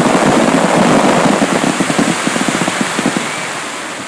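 Fireworks crackling: a dense rattle of rapid pops that thins out and fades away over the last second.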